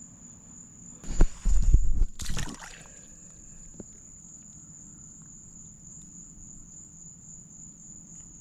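Steady high-pitched insect buzz running without a break. About a second in, a loud stretch of low thumps and rustling lasting over a second, like handling or movement close to the microphone.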